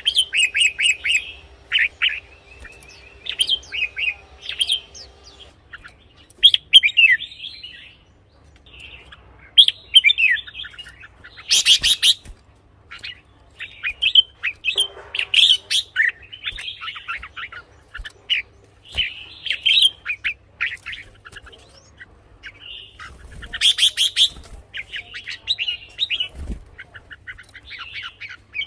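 Red-whiskered bulbul singing: bursts of short, quick chirping phrases with brief pauses between them. Two louder, sharper notes come about halfway through and near the end.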